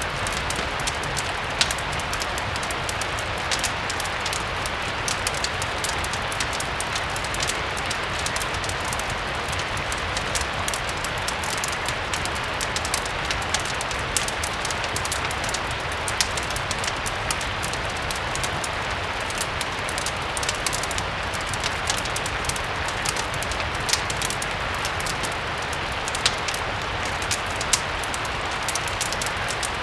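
Steady rain hissing, mixed with a fireplace crackling: scattered sharp pops and clicks over the even rain.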